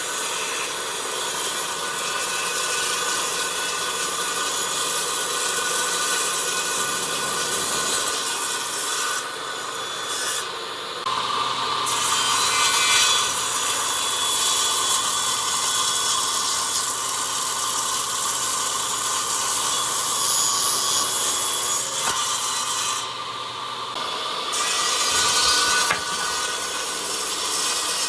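A power tool working wood: a steady motor whine under a dense rasping noise of wood being cut away. The rasp drops out briefly about ten seconds in and again near the end.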